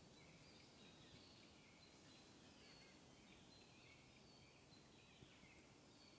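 Faint small-bird calls outdoors: short, high, downward-slurred notes repeated about once a second.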